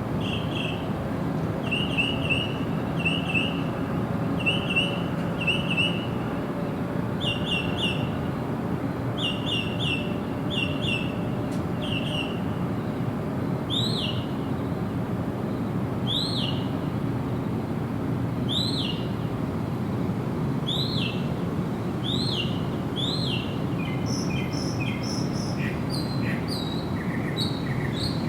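Wild birds calling over a steady low background hiss. Short quick chirp groups repeat about once a second at first. Around the middle they give way to single down-slurred notes about every two seconds, and a different rapid series of notes comes in near the end.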